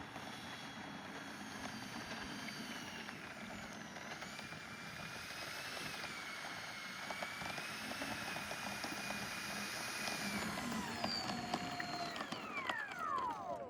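Electric ducted fans of an E-flite Airbus A320 RC jet whining steadily on landing approach, pitch drifting slightly with throttle, then spooling down with a steeply falling whine near the end as the throttle is cut for the landing. A few light clicks are heard in the second half.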